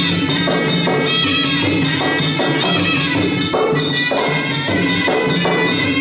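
Traditional Khmer boxing music playing during the bout: a reedy melody held over steady drums and small cymbals.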